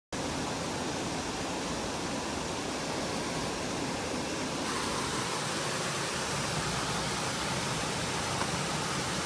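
Steady rushing of flowing creek water, an even hiss with no breaks, shifting slightly in tone about halfway through.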